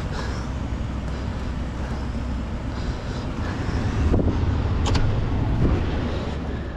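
Vehicle engine running with a steady low rumble as it backs up slowly, with a few knocks and a sharp click between about four and six seconds in.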